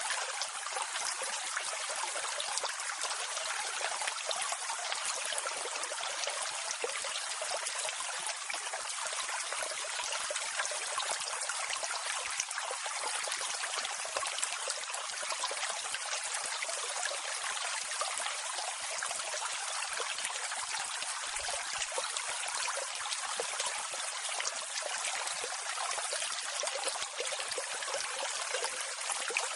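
Waterfall water flowing and splashing steadily, an even hiss with almost no low rumble.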